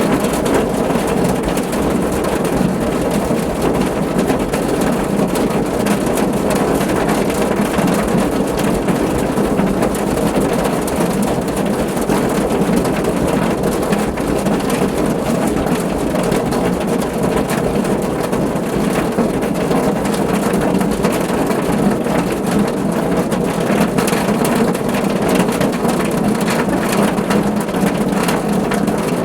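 Steady rain drumming on a car's roof, a dense, even patter of drops.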